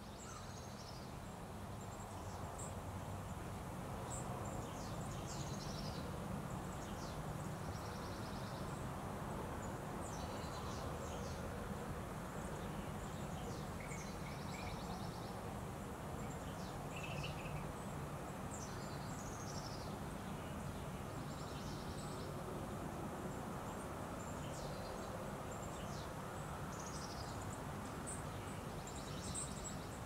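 Small birds chirping again and again, with short buzzy trills now and then, over a steady low background rumble.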